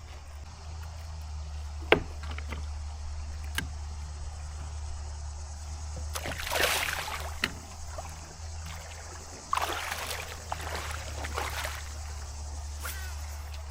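A kayak under way with a steady low hum, likely from its Newport NK180HD electric motor. Water splashes twice, and a few sharp knocks sound against the hull.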